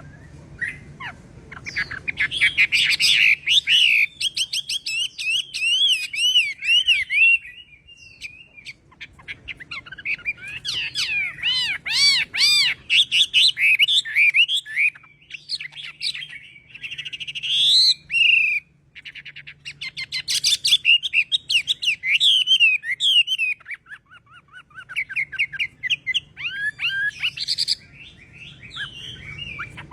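Chinese hwamei singing: long, varied phrases of rising and falling whistles and rapid repeated notes, broken by a few short pauses.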